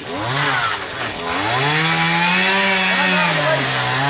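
Chainsaw engine revved twice, a short burst and then a longer one held for about two seconds, dropping back toward idle near the end.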